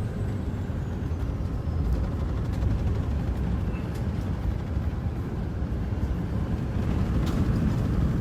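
Low rumble of wind and road noise heard from inside a moving car, as strong gusts from a supercell's rear-flank downdraft hit it. A few faint ticks come about seven seconds in.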